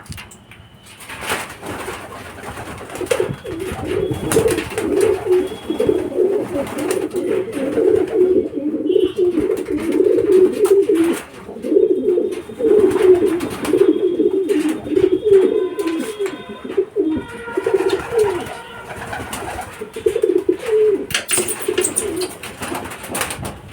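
Racing pigeons cooing: overlapping low warbling coos that run almost without a break from a few seconds in until near the end, with scattered sharp clicks.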